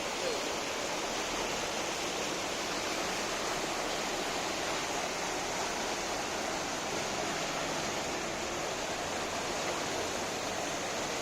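Steady rushing of water, an even noise with no change in level, such as floodwater running through the streets.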